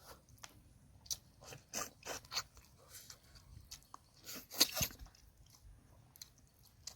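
A person chewing and crunching food close to the microphone, from a meal of braised pork trotters with raw winged beans and mustard leaves. The crunches are crisp and irregular, the loudest a little past halfway.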